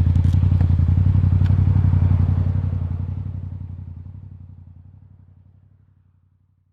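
Motorcycle engine running at a steady speed with an even pulse, fading out over the last four seconds. A few faint clicks sound in the first second and a half.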